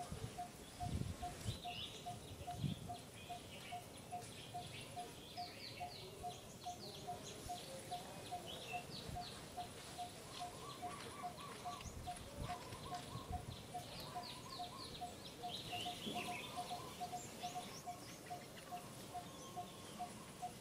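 Birds chirping in rapid runs of short, falling notes, over a steady ticking about twice a second.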